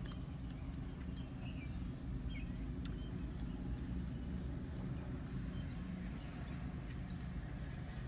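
Chewing and small wet mouth clicks of someone eating cheese bites with marinara, with scattered light clicks, over a steady low rumble.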